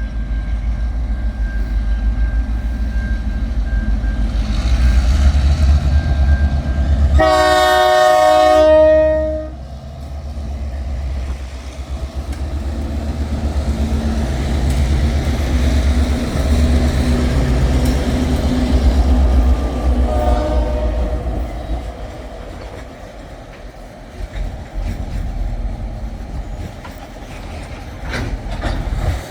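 Two TasRail diesel locomotives hauling a train over a level crossing, their engines a heavy low rumble. About seven seconds in they sound a long horn blast of about two and a half seconds as a warning for the crossing, and they give a short toot about twenty seconds in. The wagons then roll past with a steady rumble and some clickety-clack.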